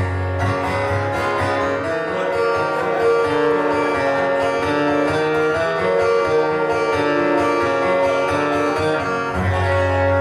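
Live guitar music, an instrumental passage with notes changing every fraction of a second, over a low held note at the start and again near the end.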